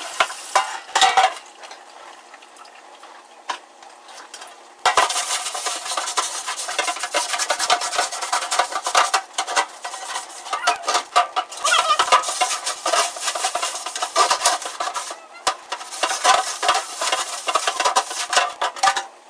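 A pan being cleaned: scraping, rubbing and clinking of dishware and utensils. It starts with a few scattered clicks, then turns loud and busy about five seconds in and keeps up almost to the end.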